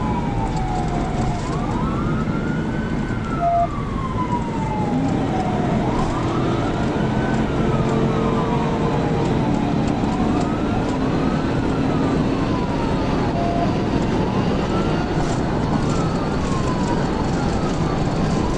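Police cruiser siren on a slow wail, its pitch rising quickly and falling slowly about every four seconds, over steady engine and road noise during a highway pursuit.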